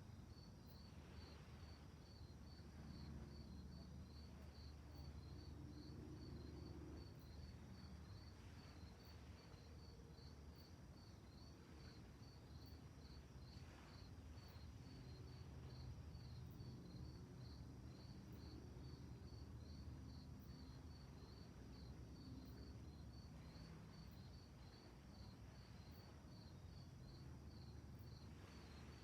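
Crickets chirping faintly and steadily, a regular pulse of about three chirps a second, over a soft low rumble.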